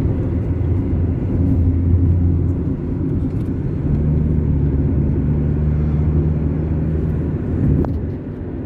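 Car cruising along a highway: steady low rumble of the engine and tyres on the road, with a steady low hum that comes in about three and a half seconds in and fades near the end.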